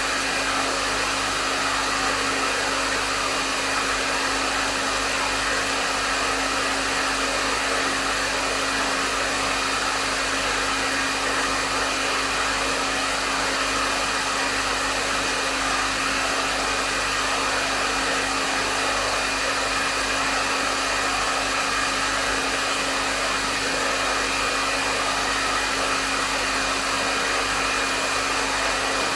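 Hair dryer running continuously on a medium setting: a steady rush of airflow with a constant motor hum and a faint high whine underneath, unchanging throughout.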